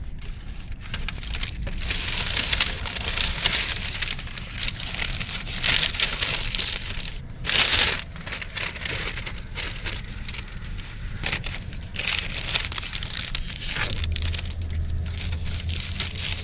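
Paper food bag and sandwich wrapper rustling and crinkling as the takeout is opened and unwrapped, with a louder crackle about eight seconds in. A low steady hum comes in near the end.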